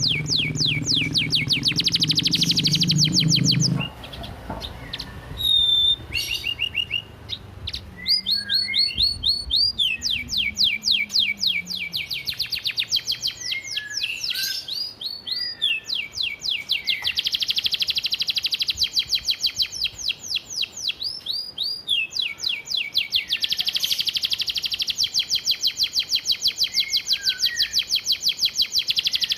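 Domestic canary singing long, rapid rattling trills of repeated high notes, several seconds each, with short chirps and brief pauses between the trills.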